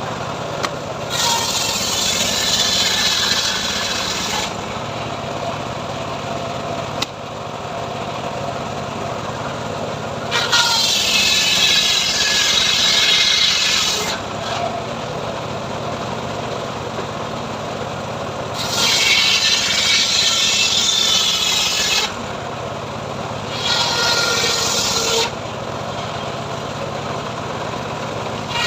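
A homemade band sawmill running steadily, with its blade ripping through sengon (albizia) wood in four spells of a few seconds each, a loud hissing rasp over the hum of the mill's engine.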